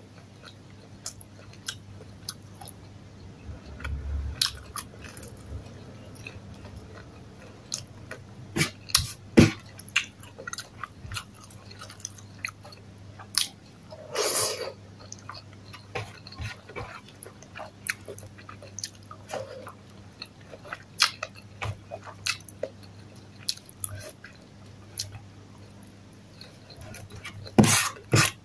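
Close-up eating sounds: chewing with scattered mouth clicks and smacks. About halfway through comes a louder crisp crunch as a bite is taken from a fried sambosa pastry with a ground-meat filling.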